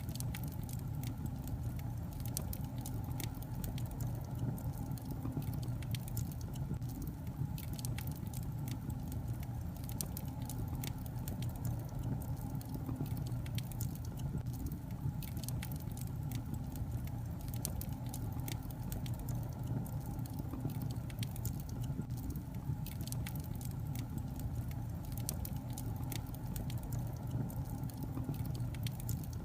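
Wood log fire crackling: frequent small, sharp, irregular pops and snaps over a steady low rumble.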